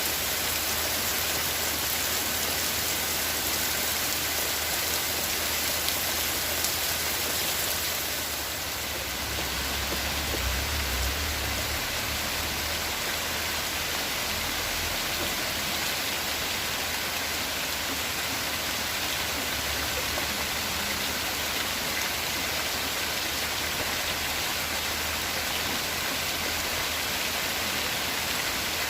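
Steady rain falling, an even hiss of drops on surfaces. The hiss thins a little about eight seconds in, and a brief low rumble sounds around ten seconds in.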